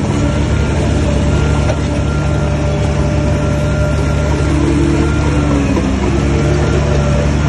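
Heavy diesel engine of earthmoving machinery running steadily, with a brief shift in its note a little before six seconds in.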